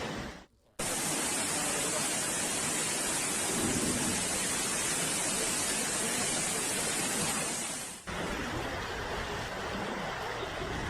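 Steady rushing noise of heavy rain and floodwater, cut off sharply just after eight seconds and followed by a slightly quieter stretch of the same kind of noise. It starts after a brief drop-out near the start.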